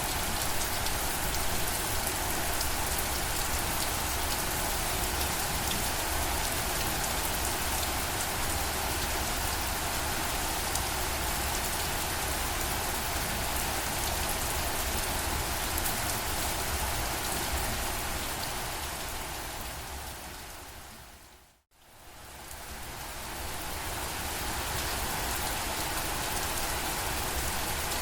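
Steady rain falling on a surface, an even hiss with raindrop patter. About three-quarters of the way through it fades out to silence for a moment and fades back in.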